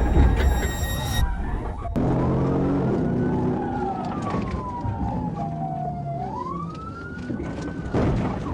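Police car siren on a slow wail, rising, falling and rising again in pitch, coming in abruptly about two seconds in. A brief high ringing tone sounds in the first second.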